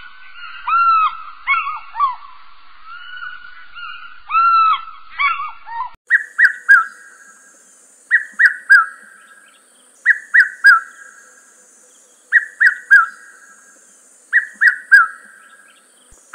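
Wild bird calls. For the first six seconds a chorus of arching, honking calls overlap. After a sudden change, a single bird repeats a short three-note call about every two seconds over a faint, steady high hiss.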